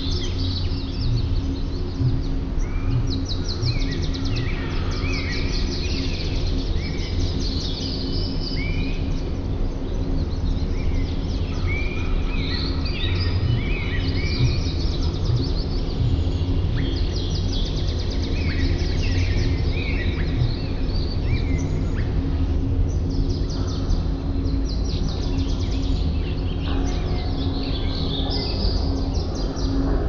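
Small birds chirping and trilling in many short, overlapping high calls, over a steady low hum.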